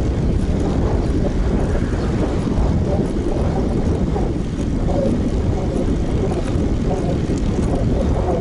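Wind buffeting an action camera's microphone on a moving road bike: a steady, loud, low rumble.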